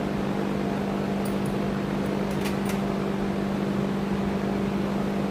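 A steady machine hum, like a motor or fan running, with a few light clicks a little over a second to nearly three seconds in.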